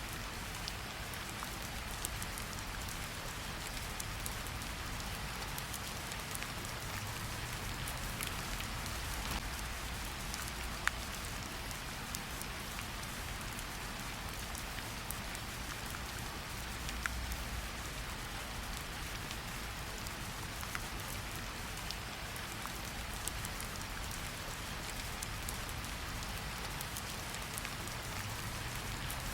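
Steady rain falling, an even hiss with the patter of scattered drops and a few sharper drop clicks.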